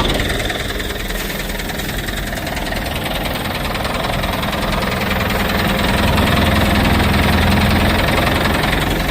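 Cat 518 skidder's diesel engine running steadily at low speed, getting a little louder from about halfway through before easing back near the end.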